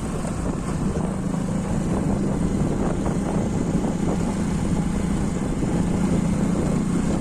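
Motorcycle engine running steadily on the move, a constant hum over low rumbling wind noise on the microphone.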